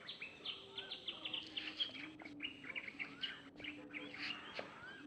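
Birds chirping and twittering in quick overlapping calls, many short high chirps with a few small rising-and-falling whistled notes, over a faint low steady tone.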